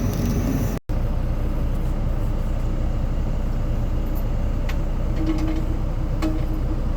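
A heavy vehicle engine running steadily with a low rumble. The sound drops out briefly under a second in.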